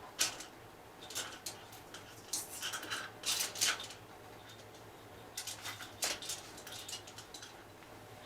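Irregular light metallic clicks, clinks and scrapes of hand tools and small engine parts being handled during motorcycle engine work, over a faint steady low hum.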